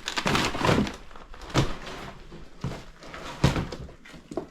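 Footsteps and shuffling over a debris-strewn floor: a run of uneven knocks and crunches over a faint rustle, the loudest about three and a half seconds in.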